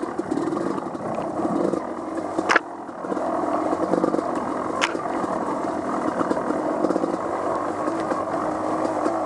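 Off-road vehicle engine running on a muddy trail, its throttle rising and falling. A sharp knock comes about two and a half seconds in, the engine briefly dropping off after it, and another knock follows a couple of seconds later.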